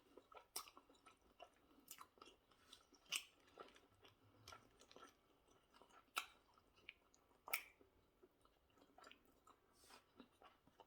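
A person chewing food close to the microphone: quiet, with many small wet mouth clicks and a few sharper crunches.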